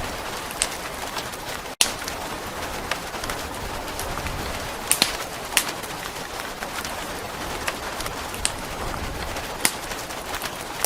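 Steady rain hiss with a fireplace crackling, with scattered sharp pops and snaps throughout. The sound cuts out for an instant about two seconds in.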